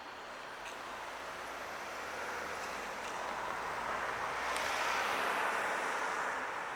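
Tobu 80000 series electric train running on the line, its wheels on the rails making a rushing noise that swells to a peak about five seconds in and then eases off.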